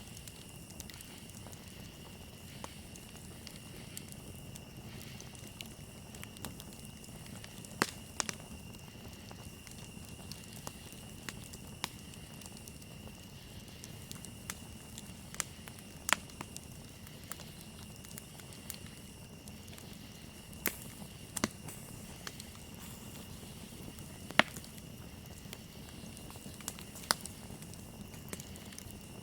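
Campfire crackling steadily, with a sharp pop every few seconds, over a continuous high chirring of crickets.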